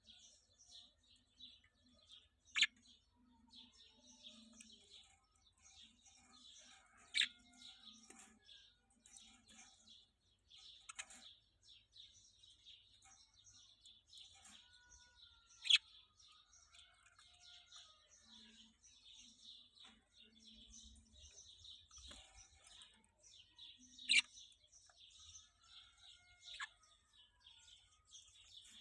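Small birds chirping and twittering without a break, with a few louder, sharp calls standing out every several seconds.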